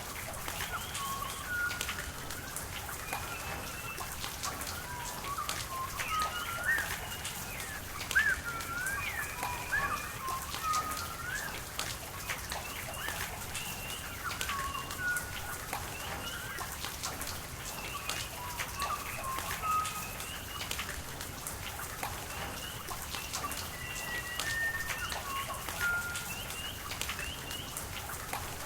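Rain falling with frequent sharp drips, while birds chirp and call throughout in short whistled and gliding notes.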